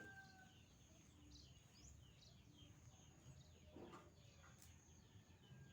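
Faint, scattered small bird chirps, with one louder short call about four seconds in, over a steady thin high tone.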